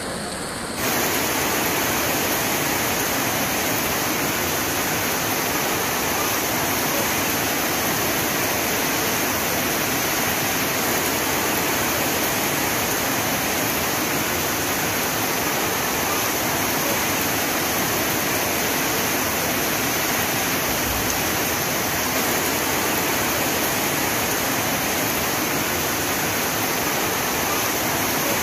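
Heavy rain falling in a steady, dense rush of noise, getting louder about a second in and then holding even.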